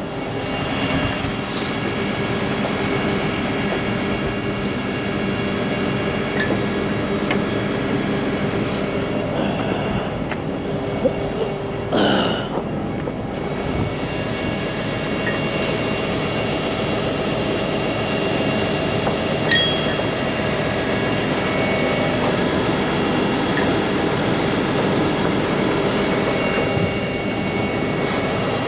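Heavy diesel truck engines running steadily, a constant drone with several held tones. About twelve seconds in, a brief squeal sweeps up and fades.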